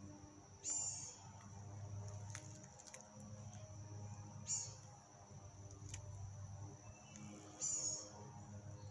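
Three short, high-pitched animal chirps, each falling in pitch, spaced about three to four seconds apart, over a steady high-pitched whine.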